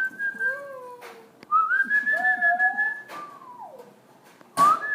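Person whistling long, steady notes, with fainter lower notes sliding up and down alongside, to coax pet parakeets into chirping. A sharp knock comes near the end.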